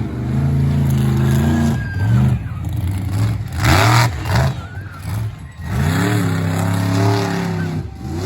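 Monster truck's supercharged V8 engine revving hard, its pitch climbing and dropping again and again as the throttle comes on and off, with a louder rush of noise about three and a half seconds in.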